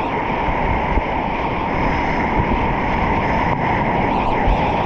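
Steady rush of river whitewater at a play wave, with wind noise on the microphone.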